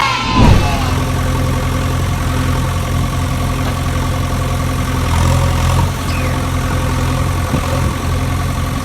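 An engine idling steadily: a low, even hum, with a brief louder swell about half a second in.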